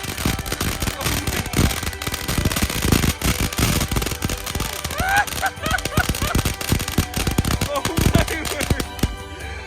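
Consumer fireworks going off in a rapid, continuous string of pops and crackles, with voices calling out partway through.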